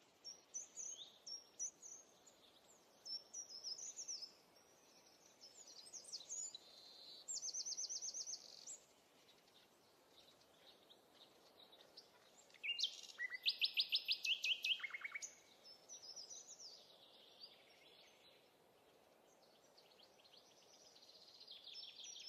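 Small wild birds singing and chirping faintly over a light outdoor hiss, with several fast trills of repeated high notes, the loudest a little past halfway through.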